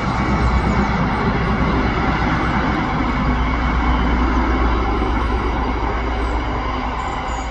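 Class 60 diesel-hauled biomass freight train passing close by, a steady loud rumble.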